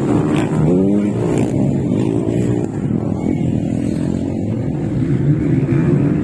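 Motocross bike engines running and revving, their pitch rising and falling, with a sharp rev-up about half a second in. More than one engine can be heard at different pitches.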